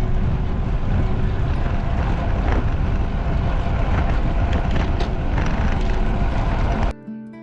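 Wind rushing over the microphone of a camera riding on a road bike, with tyre and road noise underneath: a loud, steady rumble. It cuts off suddenly near the end and gives way to acoustic guitar music.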